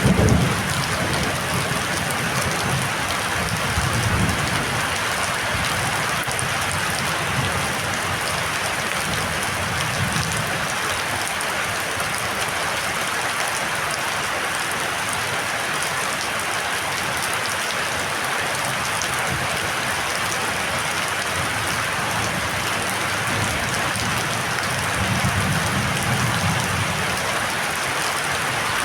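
Heavy rain falling steadily in a storm, with a low rumble swelling now and then, several times in all.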